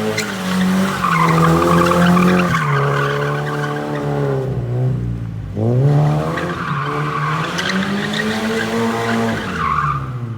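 Drift car's engine revving hard with its tyres skidding and squealing. The engine note rises and falls, drops to its lowest about five seconds in, then climbs again near the end.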